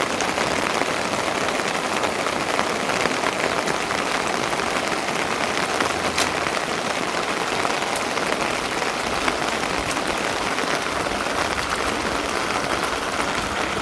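Steady rain falling: a dense, even hiss that holds the same level throughout, with one faint tick about six seconds in.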